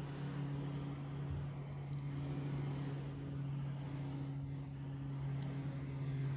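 Wood fire burning in a rusted metal can, an even hiss with a few faint crackles, under a steady low hum.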